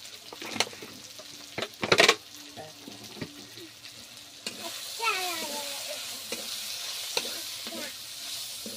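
Metal spatula stirring and scraping onion, tomato and chilli with masala powder frying in a kadhai, the oil sizzling. There are loud clatters of the spatula against the pan about two seconds in. The sizzle grows louder about five seconds in.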